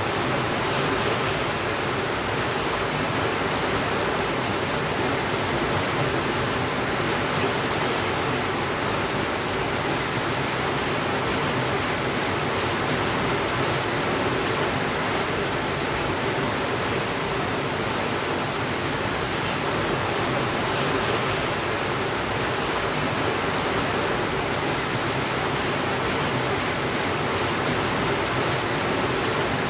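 Steady rainfall, a constant even hiss without breaks or changes in level.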